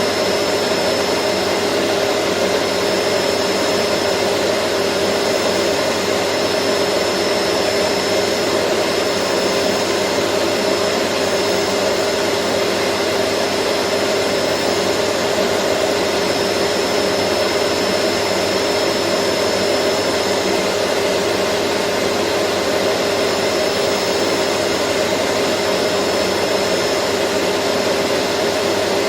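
Vacuum cleaner motor running steadily, a constant whooshing hum with a faint high whine and no change in speed or pitch.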